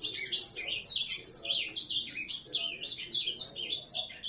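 Ultramarine grosbeak (azulão) singing a fast, continuous song of short, falling whistled notes.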